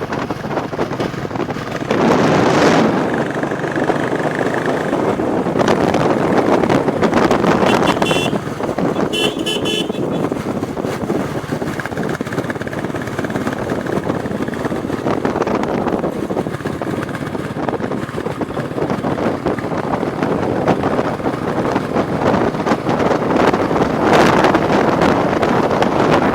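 Royal Enfield Bullet Classic 350's single-cylinder engine running under way, mixed with wind and road noise. A vehicle horn toots in short beeps about eight to ten seconds in.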